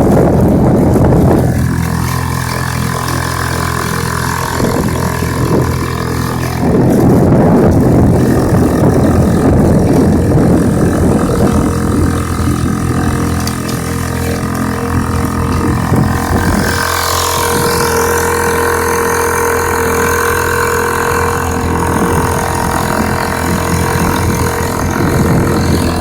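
Honda 2 hp single-cylinder four-stroke outboard motor running steadily under way at high throttle. It grows louder about a quarter of the way in, and its note shifts a little past halfway.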